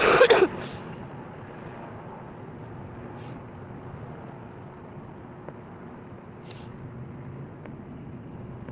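Steady low rumble of road traffic, with a loud, brief voice-like burst right at the start and a few short hisses later on.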